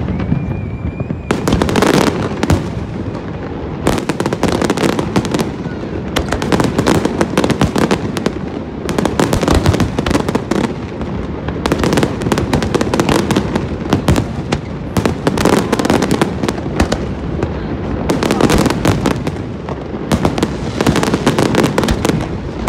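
Aerial fireworks going off continuously: a dense barrage of booming bursts and crackling that never lets up.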